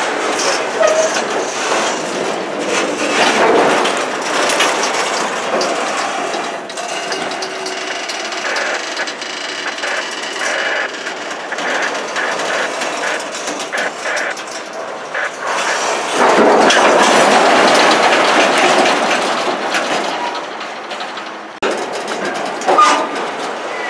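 CN freight train's cars rolling past, with a run of clicks and clanks from the wheels and couplers. It gets louder for a few seconds about two-thirds of the way in.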